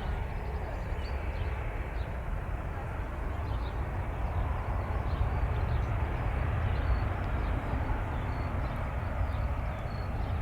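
Jet airliner engines heard at a distance as a steady low rumble, swelling a little midway and easing toward the end, with faint short high chirps over it.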